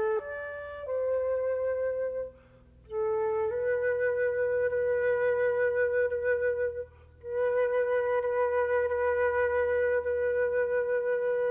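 Flute playing slow, long-held notes around one pitch with a wavering vibrato, broken by two short pauses about two and seven seconds in.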